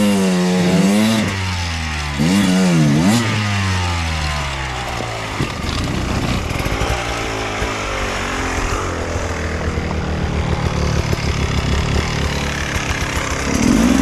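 Enduro dirt bike engine revved hard in two quick blips, the revs then sliding down. The engine then runs unevenly and choppily, climbing again near the end.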